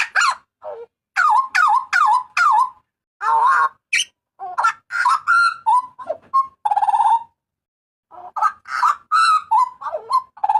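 Butcherbird, the bird Indonesian keepers call jagal papua, giving a loud string of varied calls: quick sharp notes and whistled, warbling phrases one after another. There is a pause of about a second past the middle before it starts again.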